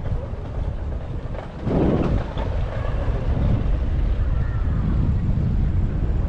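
Wind buffeting the microphone of a GoPro action camera during a bicycle ride: a low rumble that grows louder about two seconds in and stays there.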